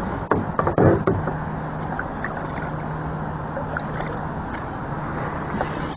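Steady water and wind noise around a kayak, with a few knocks of gear being handled against the hull in the first second and light scattered ticks after.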